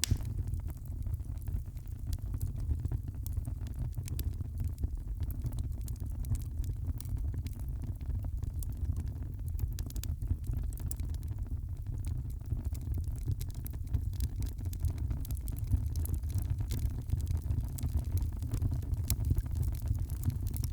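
Wood fire crackling: frequent small pops and snaps over a steady low rumble.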